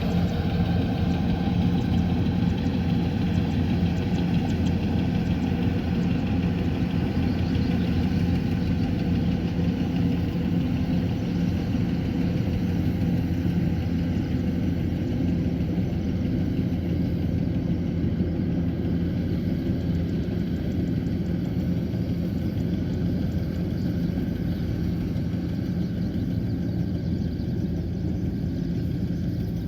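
Kubota combine harvester's diesel engine running at a steady pitch, easing slightly quieter toward the end.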